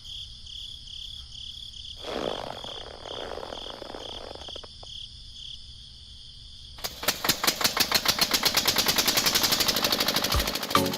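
A high, pulsing tone, then from about seven seconds in a loud, fast mechanical rattle.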